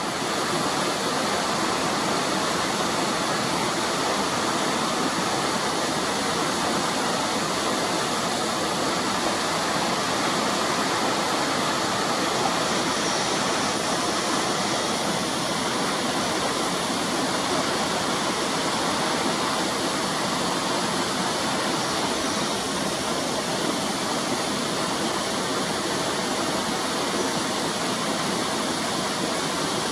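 Fast-flowing mountain stream rushing steadily over rocks, a constant hiss of water.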